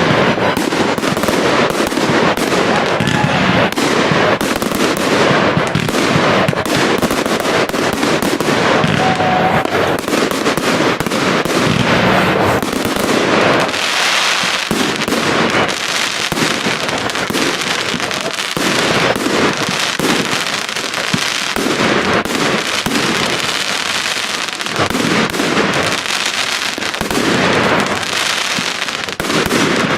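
Professional display fireworks going off in a dense, unbroken barrage: many bangs and crackles overlapping with no pause.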